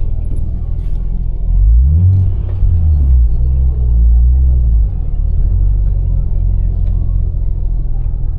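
Car engine running with a deep, low note. About two seconds in it swells and rises in pitch as the car accelerates, holds strong for a few seconds, then eases back to a steady cruise.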